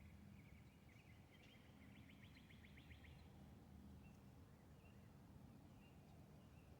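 Faint birdsong: scattered chirps, with a quick trill of about a dozen chirps starting about a second and a half in and lasting about a second and a half, over a faint low background hum.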